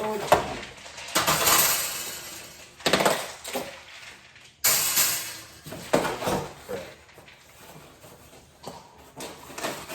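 Parts of a new toaster oven being handled and unpacked: metal racks and trays knocking and clinking against each other, with packaging rustling, in a series of separate sharp knocks and short noisy rustles.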